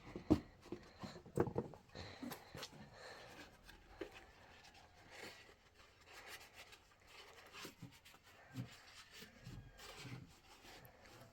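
Faint scattered knocks and rubbing, as of objects being handled, with a few louder thumps in the first two seconds.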